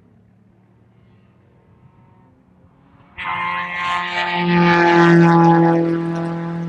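Sports car engine running hard at speed, a steady pitched note that cuts in abruptly about three seconds in, swells, then fades as the car draws away. Before it there is only a faint low hum.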